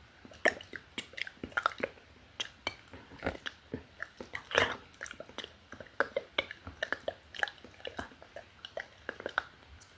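Close-miked wet mouth sounds: quick, irregular tongue and lip clicks and smacks, with one longer breathy sound about four and a half seconds in.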